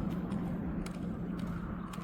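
Footsteps at a steady walking pace, a sharp click about every half second, over the low rumble of a vehicle that is fading away.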